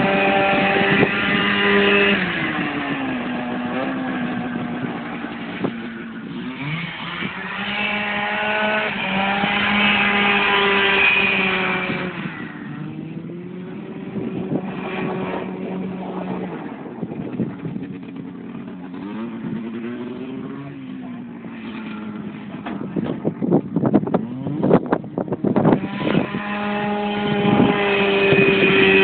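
A 440 Cuyuna twin-cylinder two-stroke engine in a half-scale race kart, revving high and holding, then easing off and picking up again several times. About three quarters of the way through, with the engine low, there is a burst of sharp cracks and pops before it revs back up near the end.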